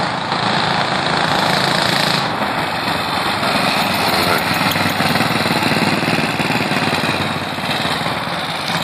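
Small mini bike engine running steadily.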